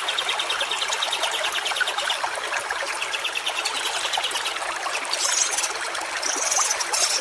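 Steady rushing and trickling of a stream. A rapid, evenly pulsing high trill comes in two short spells in the first half, and brief high bursts of sound come near the end.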